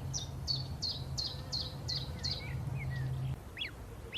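A bird calling a quick series of short, high, repeated notes, about three a second, with a few softer chirps after it. A low hum sounds underneath and stops about three seconds in.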